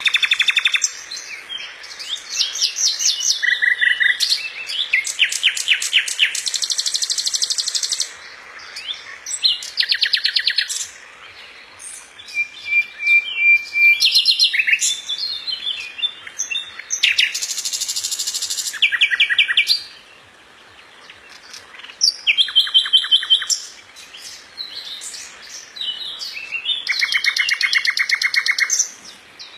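A bird screaming: loud bouts of rapidly repeated high calls, each lasting a second or two, with short pauses between bouts.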